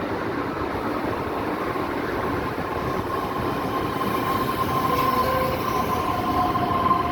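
Ivolga electric multiple unit running on the rails: a steady rumble that grows slightly louder, with a high steady whine that comes in about a second and a half in and strengthens, joined near the end by a second, lower whine.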